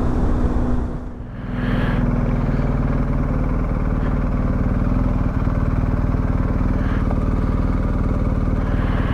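Motorcycle engine running steadily while riding, with a brief dip in level about a second in before it settles back to a steady drone.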